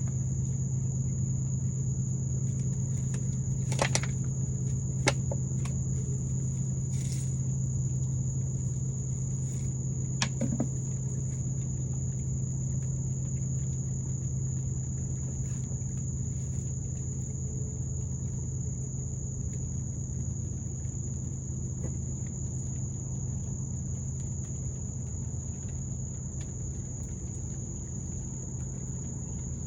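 Insects singing in one steady, unbroken high-pitched tone over a low steady hum, with a few sharp clicks about four, five and ten seconds in.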